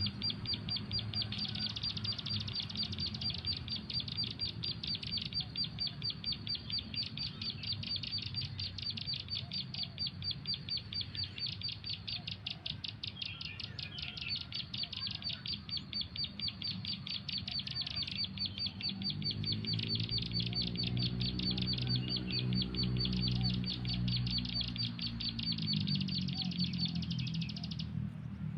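A bird call repeating as a rapid, evenly spaced string of high chirps, the kind of looped call played from a phone as a lure for bird trapping; it cuts off shortly before the end. In the second half a low hum swells, rising and falling in pitch, then fades.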